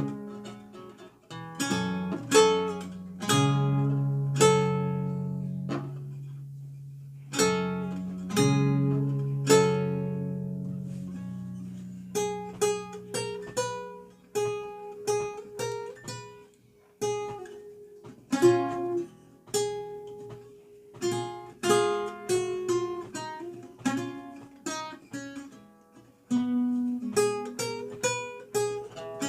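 Renaissance lute played solo: a slow, continuous stream of plucked notes and chords, each ringing and fading, over held bass notes.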